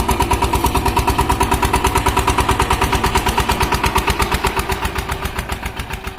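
Power tiller engine running with a steady, even beat of about nine pulses a second, fading toward the end.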